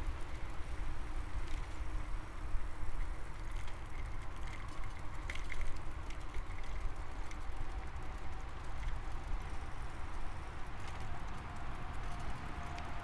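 Riding noise of a bicycle on the move: a steady, unsteadily pulsing low rumble of wind and rolling tyres on the camera's microphone, with a few faint high chirps about five seconds in.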